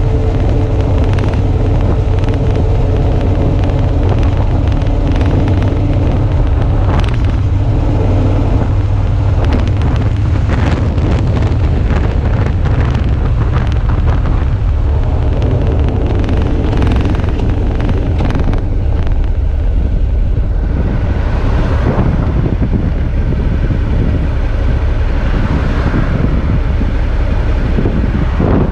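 Suzuki V-Strom 650's V-twin engine running steadily under way, with wind buffeting the action camera's microphone. The engine's steady tone is plainest in the first third; after that the gusting wind noise is stronger.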